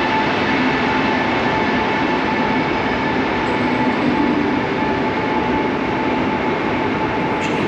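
Koleje Dolnośląskie regional train pulling out of the platform: a steady, loud running noise with faint steady whining tones on top.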